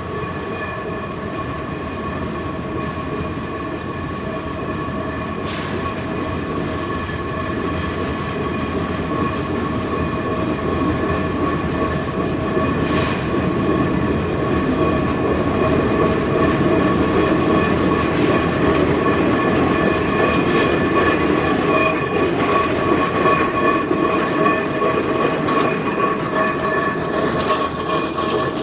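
Climax geared steam locomotive drawing steadily closer, its working sound growing louder throughout, with several steady high tones held over it.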